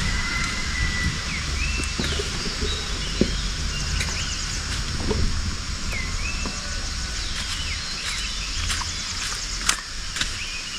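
Steady rain hiss with short gliding bird calls every second or two, a few sharp ticks of drops, and a low rumble underneath.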